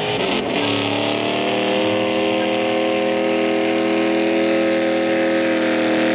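A car engine running at high, nearly steady revs, its pitch creeping slightly upward, after a brief unsettled moment about half a second in.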